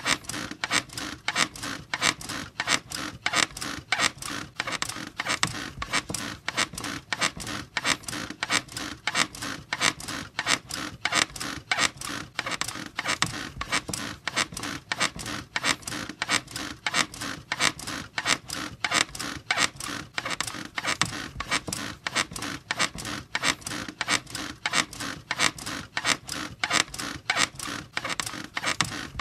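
A squeaky bed's springs and frame creaking over and over in a steady, fast rhythm, as the bed is rocked.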